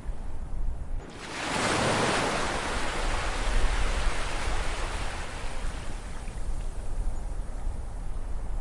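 Ocean waves: about a second in, a wave breaks with a sudden rush of surf hiss that slowly washes out over the next five seconds, over a steady low rumble of the sea.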